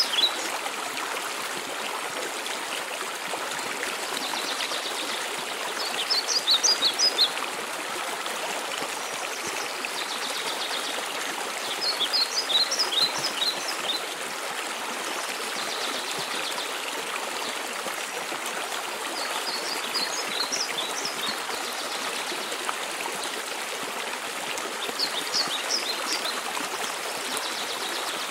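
Steady rushing of a mountain waterfall. Over it, a songbird sings short bursts of rapid high notes about every six seconds, four times and once more right at the start.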